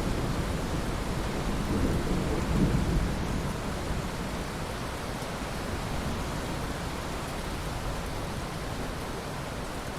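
Steady rain with a low rumble of thunder that swells about two seconds in and fades by about four seconds.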